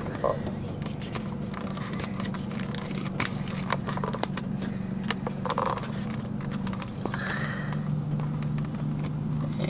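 Car engine idling steadily, a low even hum, with scattered clicks and rustles from the camera being handled close by.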